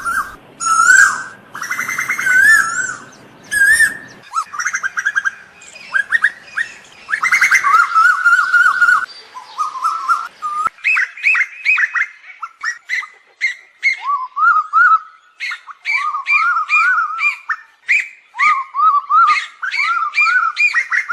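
Asian koel calling over and over: a rapid run of short whistled notes that rise and fall, one after another, with no gaps longer than a moment.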